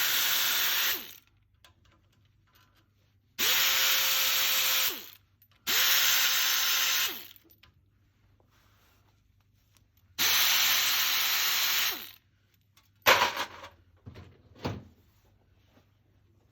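A power tool run in four short bursts, each holding a steady pitch and winding down when the trigger is let go. Two short sharp noises follow near the end.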